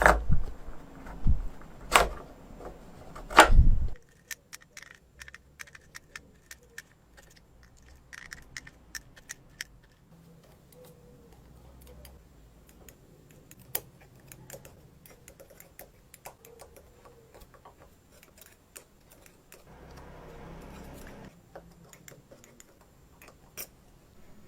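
Small metal parts being handled and fitted by hand: a few heavy knocks in the first four seconds, then light clicks, taps and clinks.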